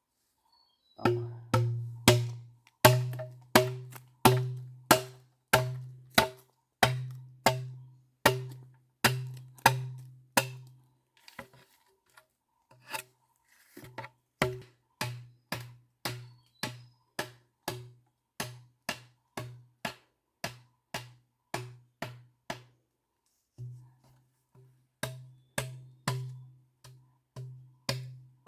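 Repeated heavy blows on a thick wooden block, about one and a half a second, each a sharp knock with a deep, short ringing thud. The rhythm breaks off for a couple of seconds around the middle and again briefly about two-thirds of the way through, then picks up again.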